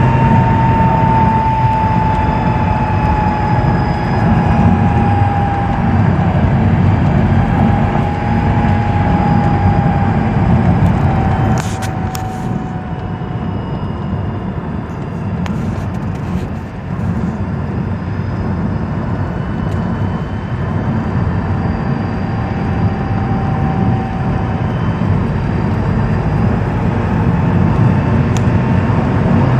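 A 2006 Mazdaspeed 6 running, its turbocharged 2.3-litre four-cylinder making a low rumble. Over the rumble is a high whine that slides slowly down in pitch several times. There are a few short clicks about twelve seconds in.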